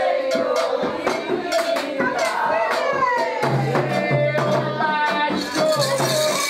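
Candomblé ritual music: voices singing over a shaken rattle and sharp percussion strikes. A low pulsing tone joins about halfway through.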